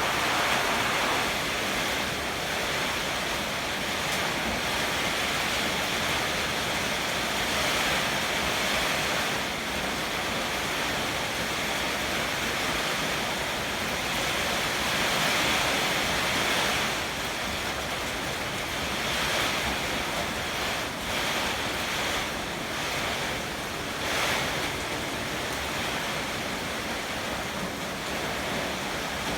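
Heavy typhoon rain and strong wind: a steady rushing hiss that swells and eases with the gusts.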